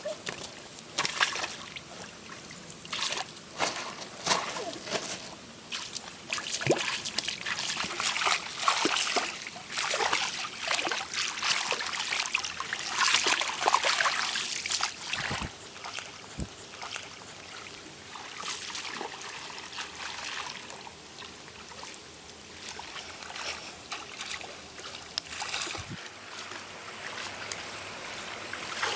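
Water splashing and trickling, with many short, irregular splashes and sloshes; they are busiest in the middle and thin out toward the end.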